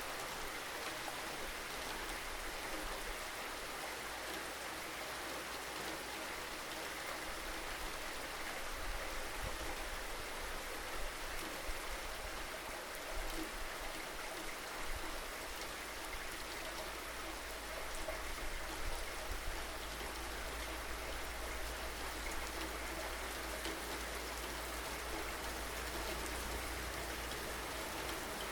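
Steady rainfall, an even hiss of many drops with small irregular peaks, over a low steady rumble.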